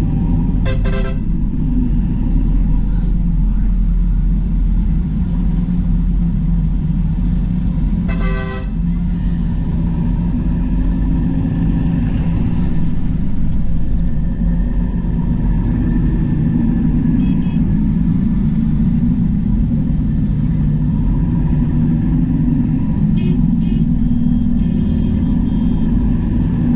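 Convoy of diesel tractors driving past with a steady, loud engine rumble, and a vehicle horn tooting briefly twice, about a second in and about eight seconds in.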